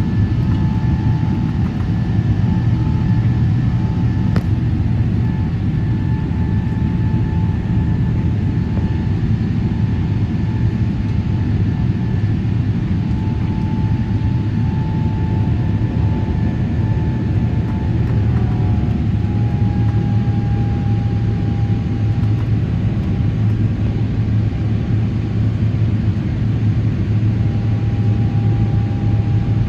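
Steady cabin noise of a Boeing 777-300ER's GE90 turbofan engines: a deep hum with a faint whine from the engines on top. The whine drops a little in pitch about two-thirds of the way through, as the engine speed eases.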